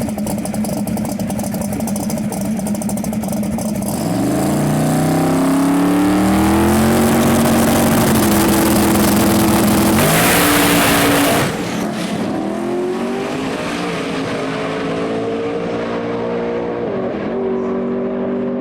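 Drag car engine running steadily, then pulling away about four seconds in and accelerating hard, its pitch climbing and dropping back at each gear change. It is loudest for a second or so around ten seconds in.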